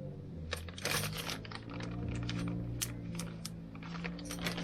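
Small metal brake-pad fitting parts, clips and locking bolts, clinking and clicking as they are handled: an irregular run of sharp ticks over a steady low hum.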